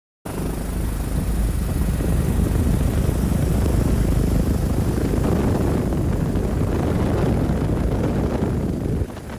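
Helicopter rotor and turbine noise: a loud, steady rumble that starts abruptly just after the beginning and dips briefly near the end, with a faint high whine over it.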